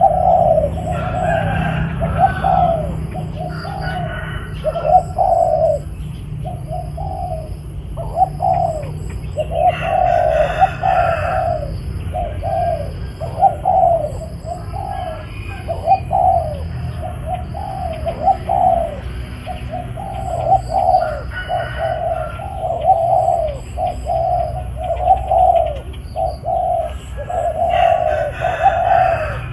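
Spotted doves cooing over and over, short low coo phrases following one another almost without a break. A faint steady high tone and faint regular high chirps run underneath.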